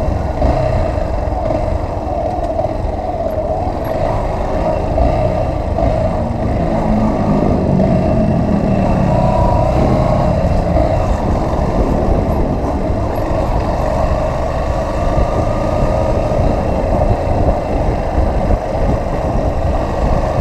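Motorcycle engine running steadily while riding along, with a low wind rumble on the microphone.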